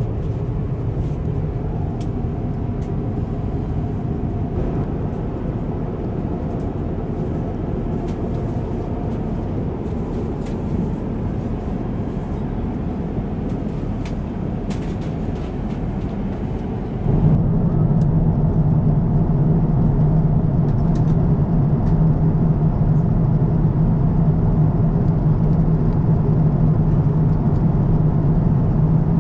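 Steady airliner cabin noise, a constant rush of air and engine sound. About 17 seconds in it steps up louder, with a steady low hum coming to the fore.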